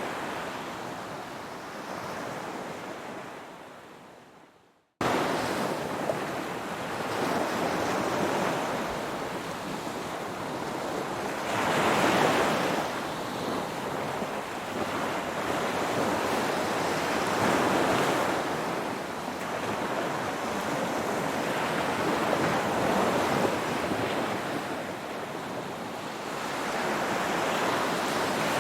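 Ocean surf: waves breaking and washing in, swelling every five or six seconds. Over the first few seconds the sound fades almost to nothing, then the surf cuts back in abruptly about five seconds in.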